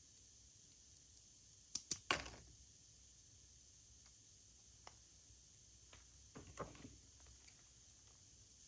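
Packaging being handled during an unboxing: three sharp clicks close together about two seconds in, then a shorter run of clicks and rustling later on, over a faint steady hiss.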